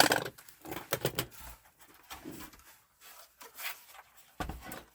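Clicks, taps and rubbing from PS4 console parts being handled and fitted together, a sharp click right at the start, then scattered lighter knocks and scrapes.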